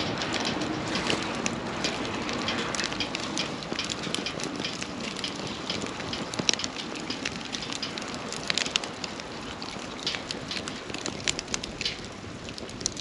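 Wood campfire crackling, with frequent irregular sharp pops over a steady hiss of burning.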